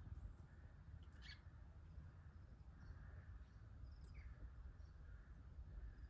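Faint bird chirps: a few short, thin calls about a second in and again around four seconds, over a low, steady outdoor rumble.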